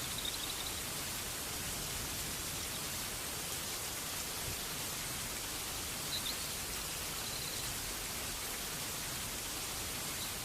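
Steady rain falling. A few faint, short high chirps come through it at the start and again about six and seven seconds in.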